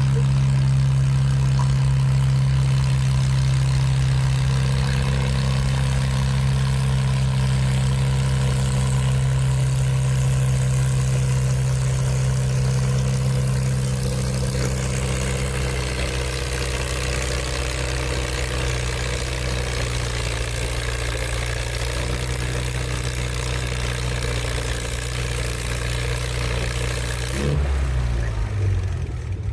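Antique farm tractor engine running hard at a steady pitch during a sled pull, slowly getting quieter. Near the end the throttle comes off and the engine pitch drops away.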